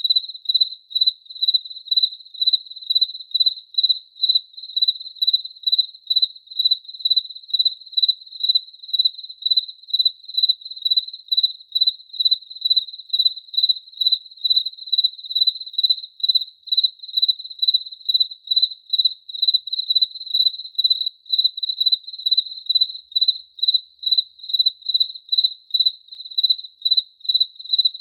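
Cricket chirping steadily at one high pitch, in even, regular chirps about three a second.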